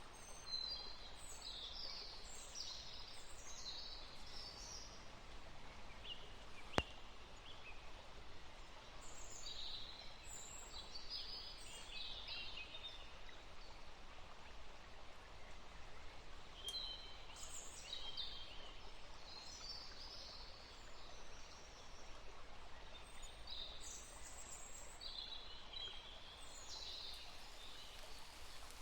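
Steady rain hiss, with groups of high, quick chirping bird calls coming every several seconds, and a single sharp click about seven seconds in.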